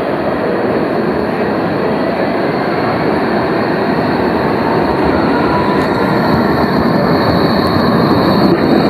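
Tram running on its rails, a steady rumbling rolling noise that grows gradually louder, with a thin high whine joining about six seconds in.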